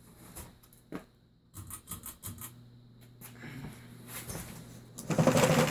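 Craftmade Presidential ceiling fan running on medium, its motor giving a faint steady hum, under scattered scratchy rustles and clicks. A loud burst of rustling noise comes about five seconds in.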